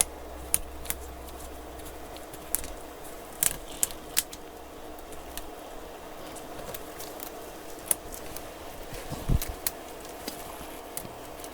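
Scattered sharp clicks and taps of a small screwdriver and parts as a tablet is taken apart, with a heavier knock about nine seconds in, over a steady low hum.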